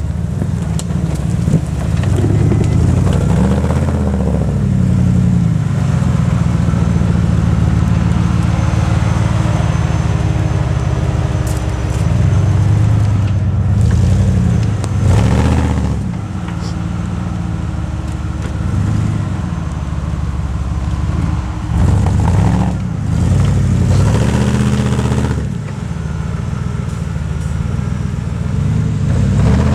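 Off-road competition vehicle's engine revving hard, its pitch rising and falling again and again as the throttle is worked.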